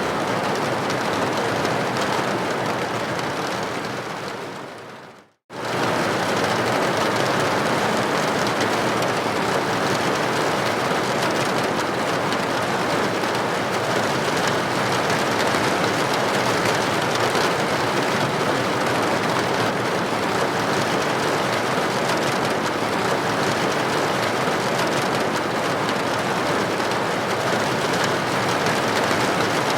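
Steady rain with droplets hitting a building window, an even hiss. About four seconds in it fades down to a moment of silence, then cuts back in abruptly at full level, the seam of a looped recording.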